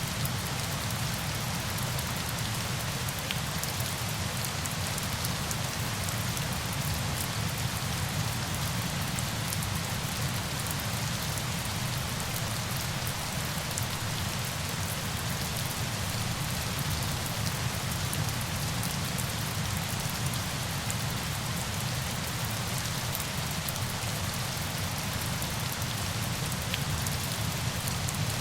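Steady falling-water noise: an even hiss that does not change, with faint drop ticks scattered through it.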